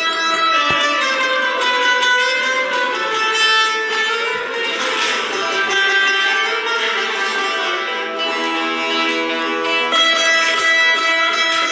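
A plucked string instrument playing a Turkish folk melody, with no singing.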